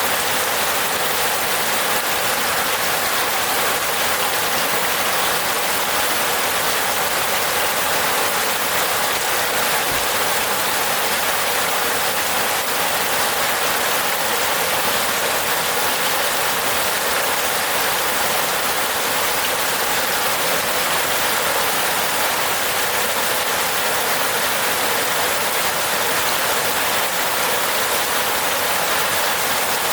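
Steady rain falling on a roof: an even hiss of many drops that holds the same strength throughout.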